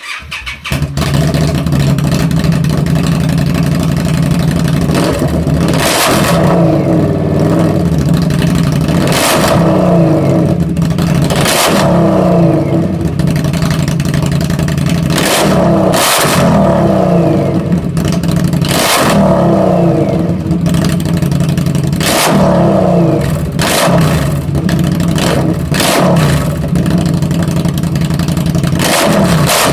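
Victory Octane's V-twin engine, breathing through a Radiant GT shorty exhaust, revved hard over and over, every two to three seconds. Each time the revs fall back there are sharp pops and cracks from the exhaust backfiring, the bangs that go with flames from the pipe.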